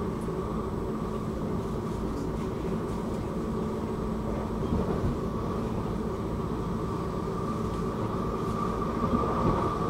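Electric commuter train running between stations, heard inside the carriage: a steady rumble of wheels on track with a steady whine that grows a little stronger near the end.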